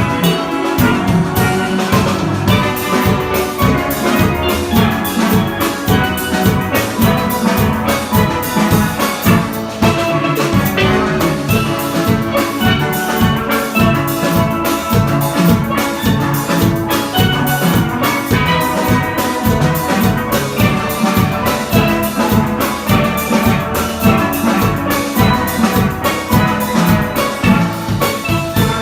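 Steel pan ensemble playing a tune in many voices, with drums and percussion keeping a steady, busy beat underneath.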